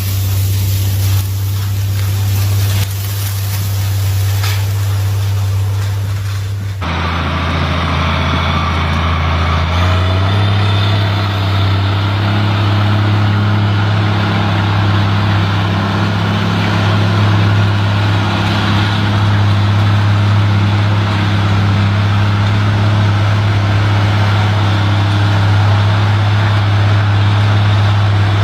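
Field Boss 4-270 tractor's diesel engine running steadily. About seven seconds in the sound changes abruptly, and a few seconds later the engine's pitch rises a little as it speeds up, then holds steady.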